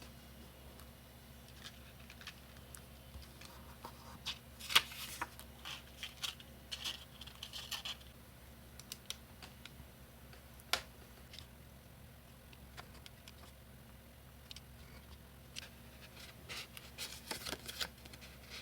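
Paper and card being handled and worked while crafting: scattered clicks and taps with short scratchy rustles. The sharpest click comes about five seconds in, another near eleven seconds, and there is a busy patch of small clicks near the end.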